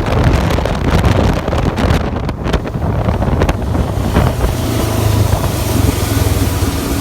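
John Deere combine harvester running steadily in the field, a continuous low engine hum, with wind buffeting the microphone in gusts during the first half.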